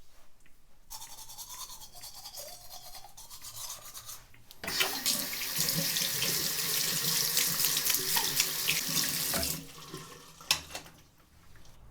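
Water running from a tap into a sink: a gentle flow first, then turned up to a full stream for about five seconds before it is shut off. A single sharp click follows.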